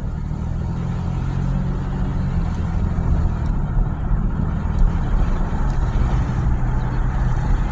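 Steady engine hum and road noise inside a moving truck's cabin.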